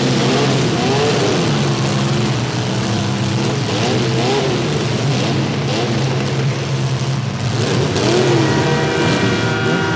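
Demolition derby compact cars' engines running under a steady drone, revving up and down again and again as the cars push and ram. A steady held tone, like a horn, comes in near the end.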